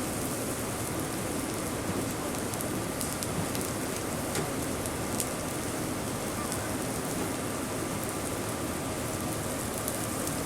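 Food sizzling and frying in a hot pan on a commercial kitchen line: a steady hiss with scattered small spattering pops.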